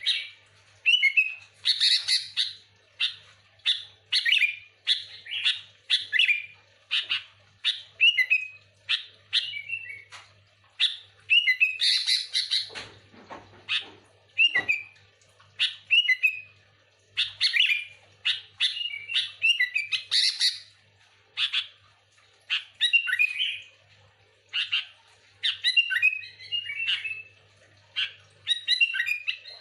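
Sooty-headed bulbul (kutilang) calling busily, with short chirping phrases about once a second and a few louder, harsher notes among them.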